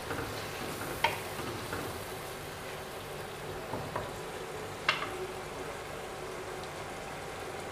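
Spice masala of onion and tomato, loosened with a splash of water, sizzling as it fries in a non-stick wok while being stirred with a wooden spatula, with a few sharp knocks of the spatula against the pan. This is the bhunai stage, frying the masala until it is well cooked without letting it burn.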